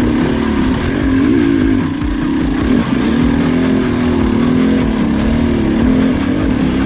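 Two-stroke KTM dirt bike engine running under throttle, its pitch rising and falling every second or so as the rider works the throttle.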